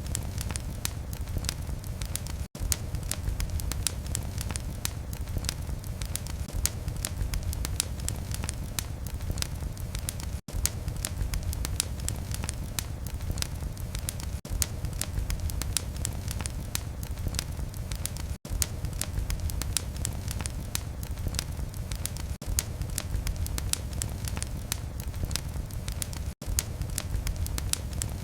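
Fireplace fire burning with dense, rapid crackling over a low rumble of flames. A brief dropout in the sound comes about every four seconds.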